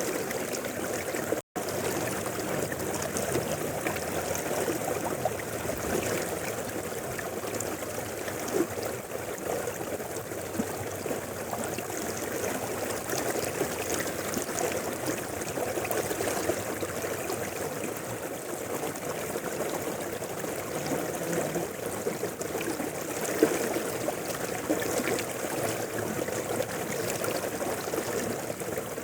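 River water flowing steadily, a continuous even rush, broken by a split-second drop-out about one and a half seconds in.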